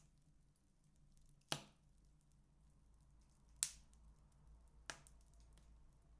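Wood fire burning in a fireplace, giving three sharp crackling pops a second or two apart over a faint low hum.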